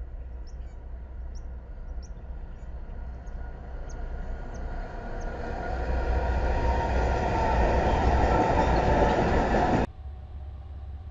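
Freight train led by several BNSF diesel locomotives approaching and passing close by, the engine rumble and wheel noise growing steadily louder. The sound cuts off abruptly near the end.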